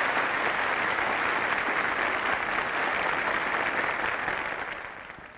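Audience applauding at the end of a song, steady, then dying away near the end.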